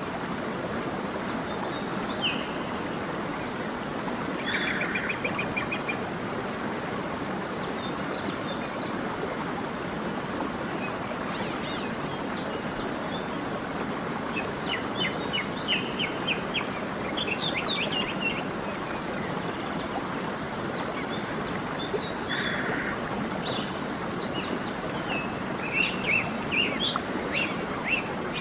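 A stream running steadily, with songbirds calling and chirping over it in scattered bouts.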